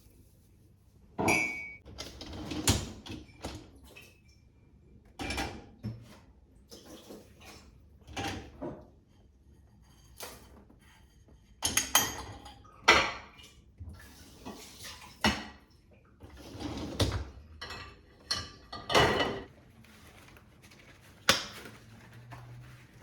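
Irregular household handling sounds: a dozen or so knocks and clinks of things being picked up and set down, with short rustles in between, much like dishes and utensils being handled.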